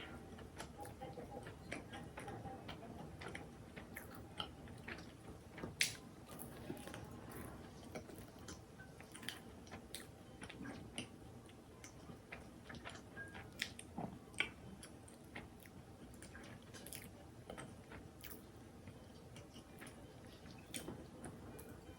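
Close-miked chewing and mouth sounds of someone eating, with many scattered short clicks and smacks over a low steady background.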